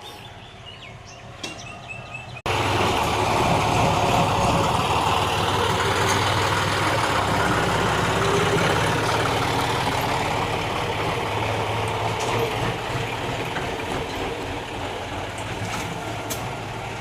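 Garbage-collection tractor's engine running steadily close by, cutting in abruptly about two and a half seconds in after a quieter stretch with a few faint high tones.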